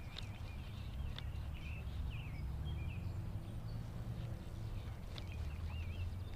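Small songbirds calling with short, wavy chirps on and off, over a steady low rumble, with a few faint clicks.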